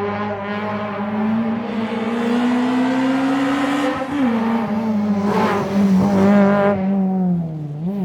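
Historic rally car engine pulling hard under load, its pitch climbing steadily for about four seconds, then dropping sharply at a gear change and holding. There is a brief dip and blip in revs near the end.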